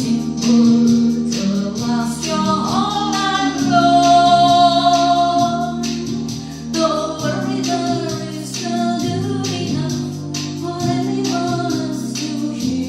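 Women singing a melody over a programmed arranger-keyboard backing of sustained chords, bass and a steady drum beat.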